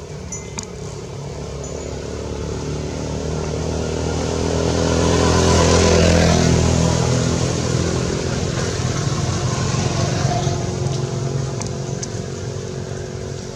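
A motor vehicle engine passing by: it grows louder to a peak about halfway through, then fades away.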